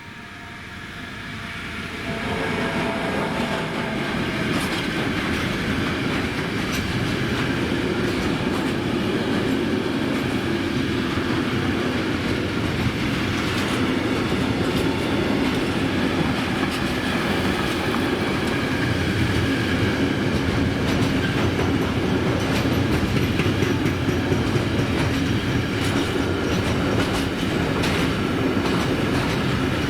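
METRANS freight train passing close by: the wagons' wheels clatter over the rails. The sound builds over the first few seconds as the train arrives, then runs on loud and steady with repeated clicks.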